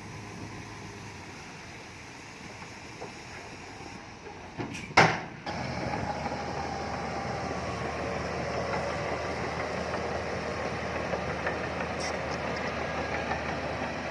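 Engine of heavy earthmoving machinery running steadily, with one loud knock about five seconds in, after which the engine is louder.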